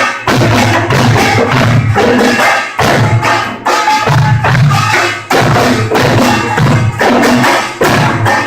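Korean pungmul percussion ensemble playing loudly: gongs and drums beating a dense rhythm, with the loudness dipping briefly every second or two. Recorded on a phone, with poor sound quality.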